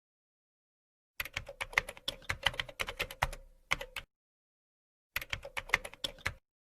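Computer keyboard typing, two runs of rapid key clicks. The first begins about a second in and lasts nearly three seconds; a shorter run comes near the end.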